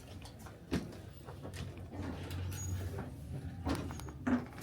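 Elevator running with a low steady hum, strongest in the middle, with a few sharp knocks and clicks from the car and its doors.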